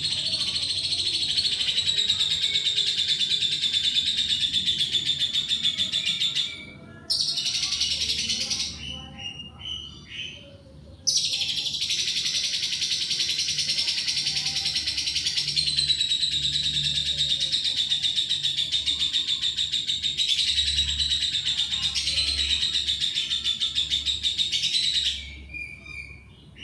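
Lovebird singing a long, very rapid chattering trill in runs of several seconds, pausing briefly about six seconds in and again for a few seconds with only scattered chirps before resuming.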